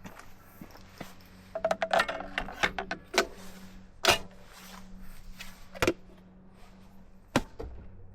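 A string of metallic clicks and rattles, followed by single sharp knocks, like metal parts being handled and set in place.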